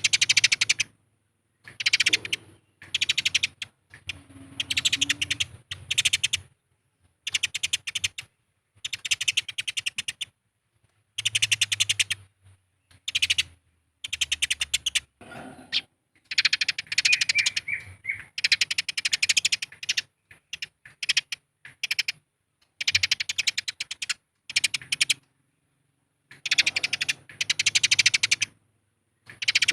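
Eurasian tree sparrows chattering in fast, excited strings of chirps, the agitated calls of sparrows fighting. The chatter comes in bursts of one to two seconds with short silences between.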